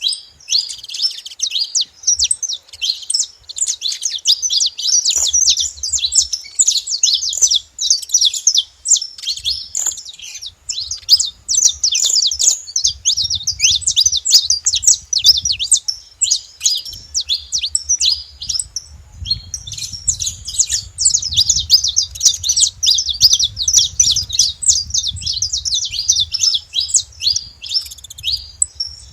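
A flock of saffron finches chirping and singing together, many short high calls overlapping in a dense, continuous chatter.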